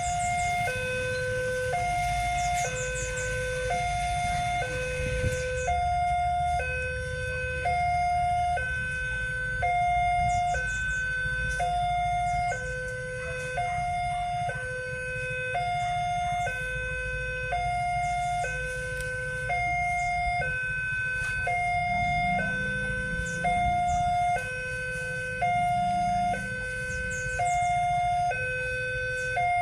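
Railway level-crossing warning alarm of the Westinghouse type, sounding continuously as a two-tone electronic signal. A lower and a higher tone alternate about once a second, over a low rumble of engines waiting at the crossing.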